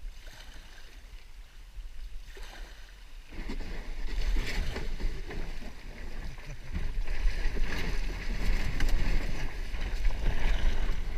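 Kayak being paddled and manoeuvred in the water, with splashing and knocking that get much louder about three seconds in.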